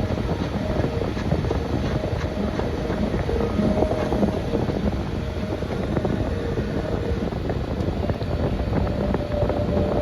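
Recorded fireplace crackling played through a car's speakers from its built-in 'Sounds of Nature' relaxation feature: a steady rush dotted with many small crackles.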